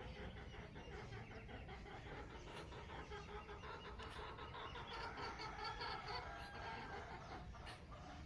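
Faint early-morning outdoor ambience: many birds chirping and twittering over a low steady rumble, with a quick run of high chirps about five seconds in.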